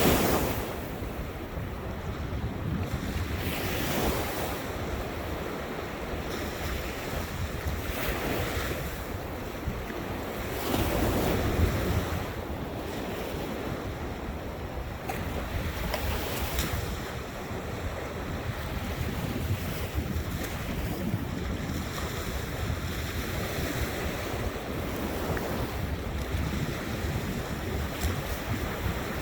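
Ocean surf breaking on the shore in a slow rhythm, a wave washing in every few seconds, with wind buffeting the microphone.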